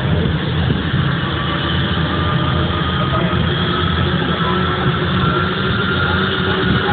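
Vickers Vanguard's Rolls-Royce Tyne turboprop engine running during start-up: a steady low rumble with a thin whine that rises slowly in pitch as the turbine spools up.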